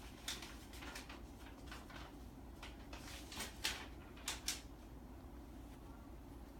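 Faint, brief rustles and light clicks, about ten of them, clustered in the first four and a half seconds, over a low steady hum.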